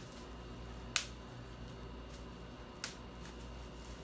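Plastic bubble wrap popping as a child squeezes the bubbles with her fingers: two sharp single pops about two seconds apart, the first the louder.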